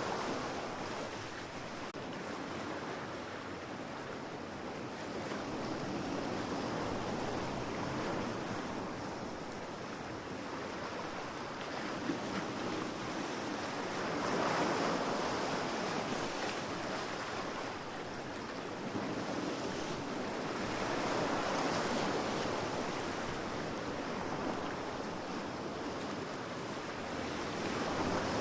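Ocean surf: waves breaking and washing up the shore in slow surges, with one swell about halfway through and another a little later.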